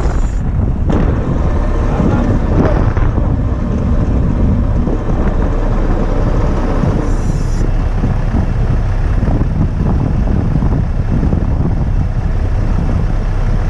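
Strong wind buffeting the microphone as a heavy, irregular low rumble, with a truck's engine running underneath.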